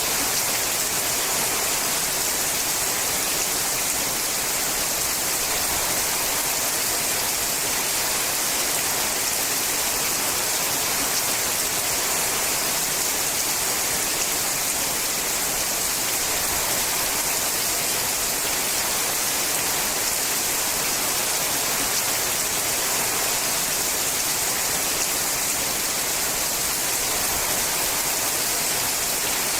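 Steady heavy rain falling on a sheet-metal roof, a dense, even hiss with no separate drops standing out.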